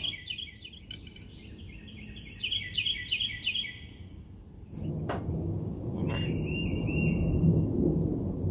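Wild birds chirping in quick runs of repeated notes, with a sharp click about five seconds in. A low rustling noise comes up in the second half and is the loudest sound near the end.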